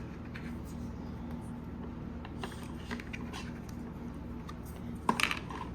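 Faint handling of Play-doh and the plastic pieces of a Play-doh toy set: a few soft clicks and rustles over a steady low room hum, with a sharper knock about five seconds in.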